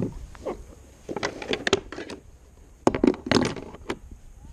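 Handling knocks and rattles against a kayak, in two quick clusters about two seconds apart. The second cluster is the louder.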